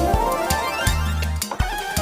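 Kompa groove played on a Yamaha MODX keyboard: a lead patch glides upward in pitch over a steady beat of drums and bass.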